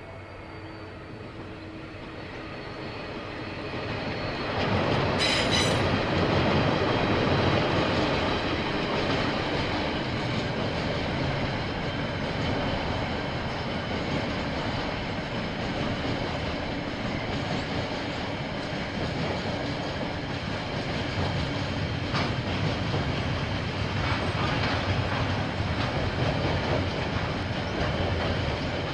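KiwiRail train passing on the line: it grows louder over the first few seconds as it nears, then carriages or wagons roll past in a long, steady rumble with clickety-clack from the wheels. There is a brief high-pitched screech about five seconds in.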